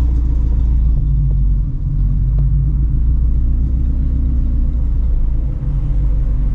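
2016 Shelby GT350's 5.2-litre flat-plane-crank V8 with long-tube headers, rumbling steadily at low speed, with brief small dips in level about two and five and a half seconds in.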